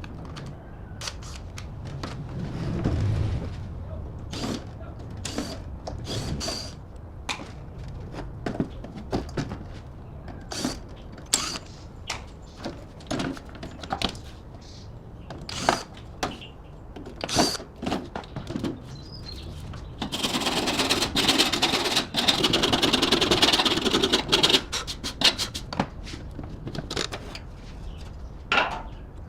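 Workshop sounds of metal parts being handled and worked: scattered sharp clicks and knocks throughout, with a harsh scraping or hissing noise for about four seconds past the middle.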